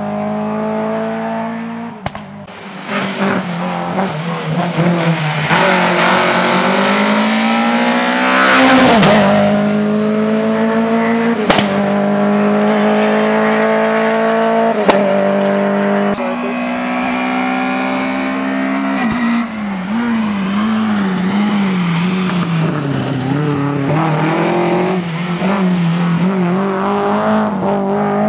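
Lada VFTS rally car's four-cylinder engine driven hard: the revs climb and then drop suddenly at gear changes, with a sharp fall about sixteen seconds in and wavering revs in the last third. A few sharp clicks cut through.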